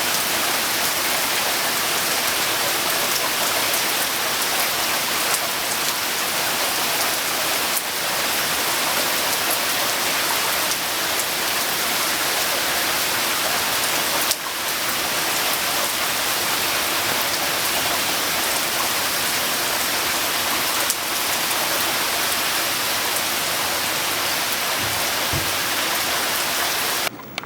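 Steady, loud rain falling and hissing on surfaces, with a few sharper single drop hits now and then. It cuts off abruptly near the end.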